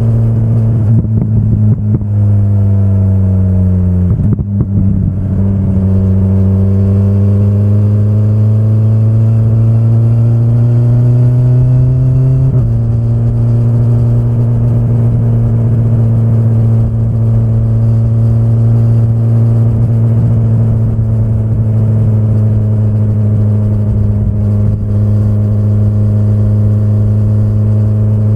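2025 BMW S1000RR's inline-four engine heard from the rider's seat at low revs: the revs fall over the first few seconds, climb slowly, jump up suddenly about twelve seconds in, then hold fairly steady.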